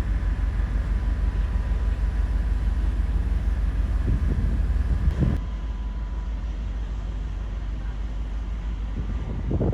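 Steady low engine rumble with a faint steady whine; about five seconds in the sound changes abruptly and becomes quieter and duller.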